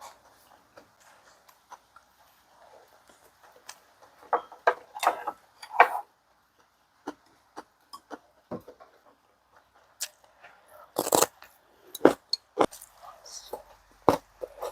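Eating sounds at a meal: scattered clicks and knocks of utensils against dishes, mixed with short chewing and slurping noises, in irregular clusters with pauses between.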